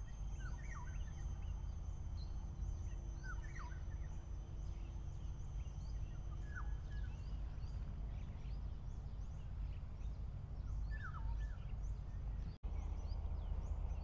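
Birds calling: a short falling call repeated four times, a few seconds apart, and many faint high chirps, over a steady low rumble of background noise. The sound drops out for an instant near the end.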